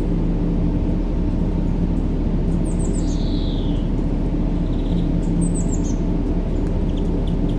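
Steady low rushing sleep noise, a white-noise bed heavy in the low end, with birds calling over it: quick falling chirps and a slurred downward whistle about three seconds in, more chirps about five and a half seconds in, and a few short pips near the end.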